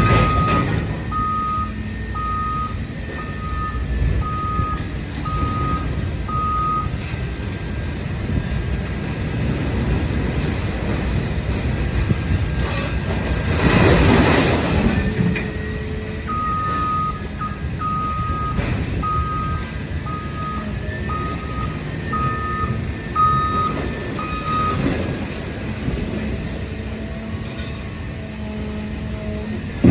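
A vehicle's reversing alarm beeping at a steady pitch, about one and a half beeps a second, in two runs: from the start for about seven seconds, then again for about eight seconds in the second half. Underneath, heavy scrap-yard machinery runs steadily, and a loud rushing burst near the middle is the loudest sound.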